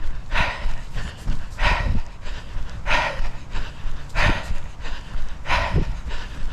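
Heavy, rhythmic breathing of a runner close to the microphone, one loud breath roughly every second and a half, over a low rumble with occasional thumps.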